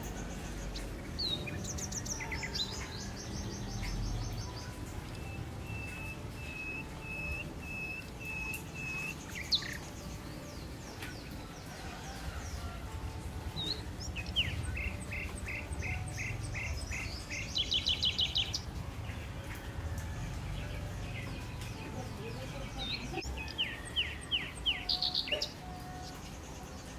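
Songbirds singing in turns: a quick high trill, a row of evenly repeated whistled notes, and chirp series that end in fast trills, with pauses between phrases over a steady low background rumble.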